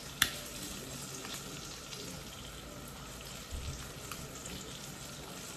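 Aubergine slices frying in hot oil in a frying pan: a steady sizzle with small crackles, and one sharp click a moment in.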